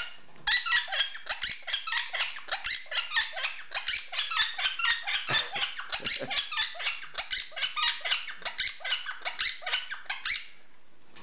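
Pet bird giving a long run of rapid, high-pitched laugh-like squawks, about four a second, that stops near the end.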